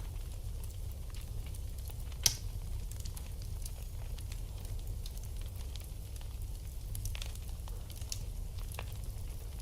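Wood fire burning in a fireplace: a steady low rumble with scattered crackles and pops, and one sharp, loud pop a little over two seconds in.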